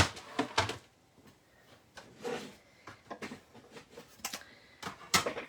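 Clicks and knocks of plastic cutting plates and an embossing folder being handled and set down on a tabletop, the sharpest knock right at the start.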